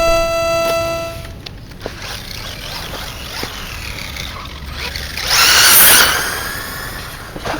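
A held electronic tone for about the first second, then an LRP S10 Blaster brushless RC truck driving on the ground, its motor whine and tyre noise swelling to a loud rush about five seconds in as it speeds up and passes close, then easing off.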